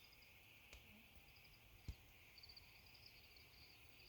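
Near silence: faint outdoor ambience with repeated short, high-pitched chirping trills, mostly in the second half, and one soft tap just before the middle.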